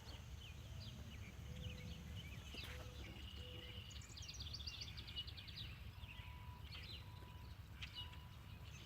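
Songbirds chirping and trilling over a faint low outdoor rumble, with a sharp click right at the start and a few short, steady tones in the second half.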